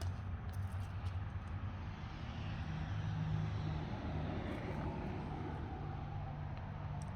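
A vehicle engine running, a low steady hum with a broad rushing sound that swells and fades in the middle.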